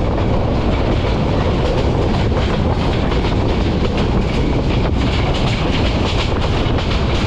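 Passenger train running along the track, heard from on board: a steady loud rumble of wheels and coach with many quick, irregular clicks and rattles.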